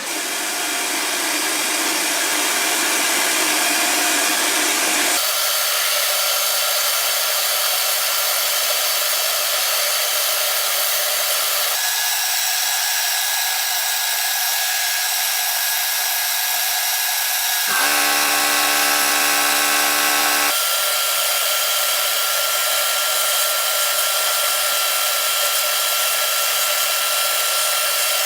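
Glass bead blasting: a steady hiss of compressed air driving bead media against the pistol's steel parts. The sound changes abruptly several times, and for about three seconds past the middle a low buzzing hum joins the hiss.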